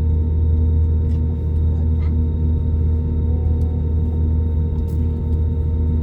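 Airbus A320 engine and airflow noise heard inside the passenger cabin: a steady low drone with several constant hums above it.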